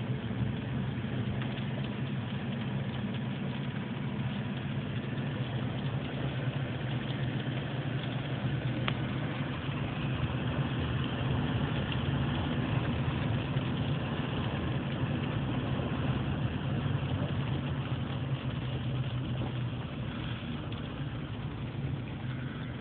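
Hail storm: a steady, dense patter of falling hail and rain over a low, steady hum.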